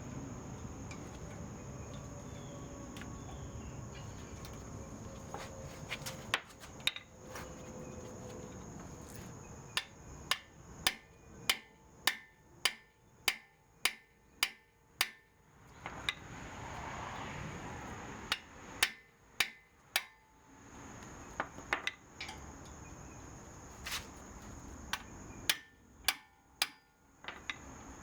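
Hammer blows on metal front-brake parts: sharp strikes that begin a few seconds in, come in quick runs of about two a second, pause, then return in shorter clusters. A steady high thin tone sounds behind them.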